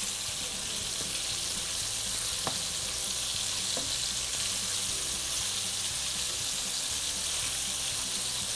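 Egg-washed, flour-coated chunks of bobcat meat deep-frying in about half an inch of hot oil in a skillet: a steady sizzle, with a couple of faint ticks.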